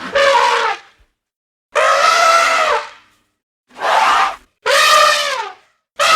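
Elephant trumpeting: four loud, brassy calls of about a second each with short silent gaps between them, and a fifth beginning near the end.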